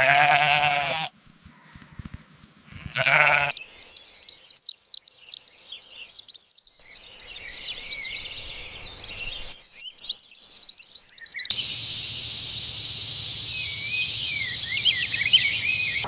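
A farm animal bleats twice, a long call then a shorter one. After that, small birds chirp and sing, and the background noise changes abruptly several times.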